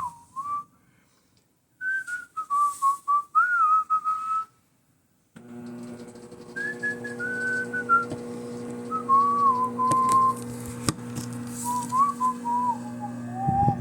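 A person whistling a wandering tune. About five seconds in, a steady low hum starts underneath and runs on beneath the whistling.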